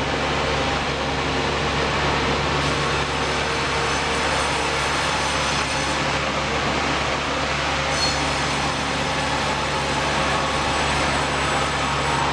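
Sawmill machinery running: a steady mechanical hum with an even hiss over it that holds without a break.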